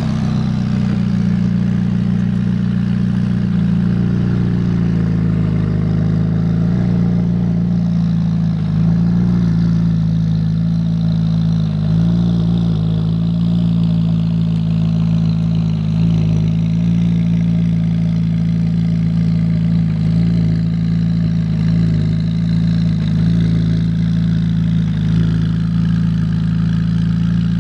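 McLaren 570S's twin-turbo 3.8-litre V8 idling steadily through its sport exhaust.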